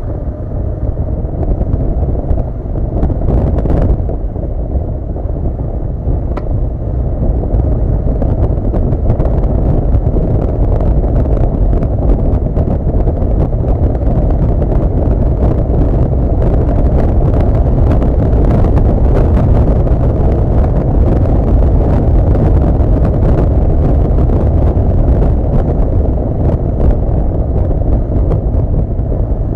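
Honda CB400 Super Bol d'Or inline-four motorcycle underway, its engine running under steady, heavy wind noise on the onboard camera's microphone.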